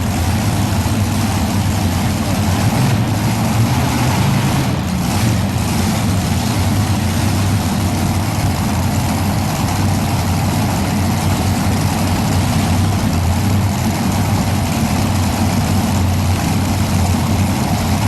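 Engines of a modified pulling tractor idling with a steady heavy rumble.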